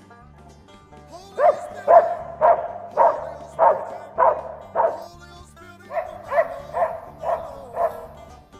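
A hunting dog barking in a steady series, about two barks a second: seven barks, a short pause, then five more, over background music.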